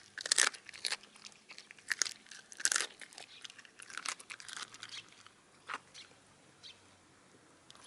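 Shiba Inu crunching and chewing a chicken wing tip, the bone cracking in irregular crunches that thin out after about five seconds.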